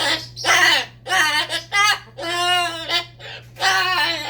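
Parrot talking: a string of short, speech-like babbled phrases, with one longer held note around the middle.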